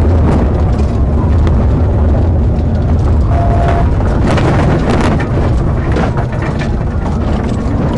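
Engine and road noise inside a patrol car driving fast in a pursuit: a heavy, steady low rumble with scattered knocks and rattles.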